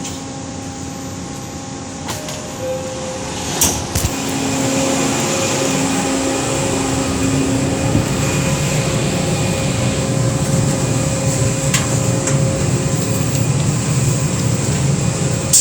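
Interior of a Morgantown PRT car: a steady hum and rushing noise. A few sharp knocks come about three and a half to four seconds in, after which the noise grows a little louder and holds steady.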